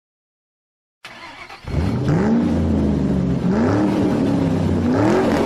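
Rally car engine accelerating hard, starting suddenly about a second in; its pitch climbs and drops three times as it shifts up through the gears.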